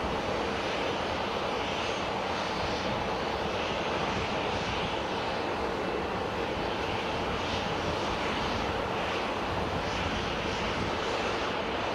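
Ryanair Boeing 737's jet engines running, a loud, steady, even noise.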